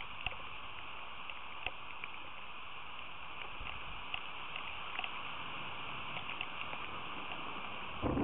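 Rain falling steadily in a storm, a constant hiss with scattered sharp ticks of drops striking nearby; near the end a louder, deeper rush sets in.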